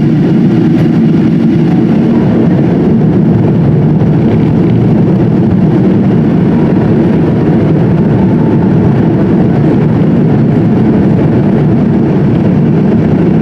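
Steady engine and airflow noise heard inside the passenger cabin of a Boeing 777-200 airliner. It is even throughout, with no change in power.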